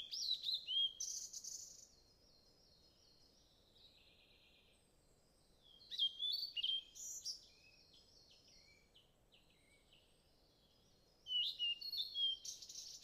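Birds calling: three bouts of quick, sharply sliding whistles and chirps, about six seconds in and again near the end after the first, with fainter chirping in between.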